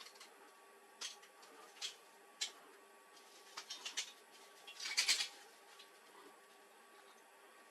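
Faint, scattered light clicks and clatters of parts being handled while working on a laser printer, with the loudest little cluster about five seconds in.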